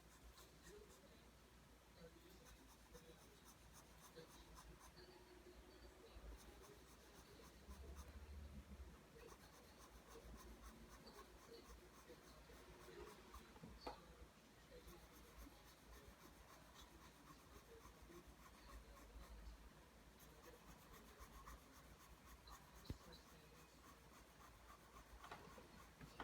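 Pencil drawing lines on paper: faint, repeated scratching strokes.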